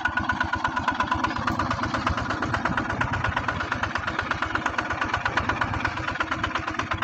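ZT140 two-wheel walking tractor's single-cylinder diesel engine running steadily, with a rapid, even beat of firing pulses.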